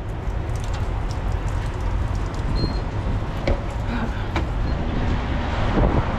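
Steady low rumble of an idling diesel truck engine, with a few faint clicks.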